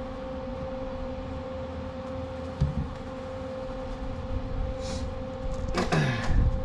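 Steady hum of a welding machine standing ready, with one clear unchanging tone over an even hiss. There is a single knock a little past halfway and a short clatter near the end.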